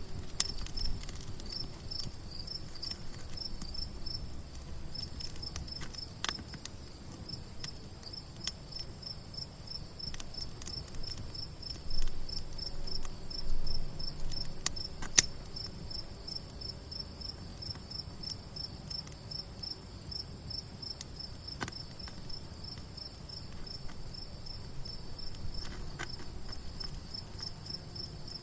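Campfire crackling, with sharp pops scattered through. Crickets chirp steadily, about three chirps a second, over a constant high insect trill.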